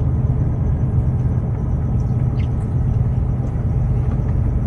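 Truck's diesel engine idling, a steady low rumble.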